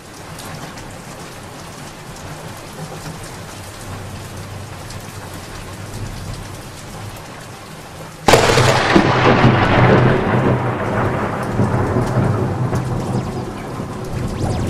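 Steady rain falling, then about eight seconds in a loud thunderclap that cracks suddenly and rumbles away slowly while the rain keeps on.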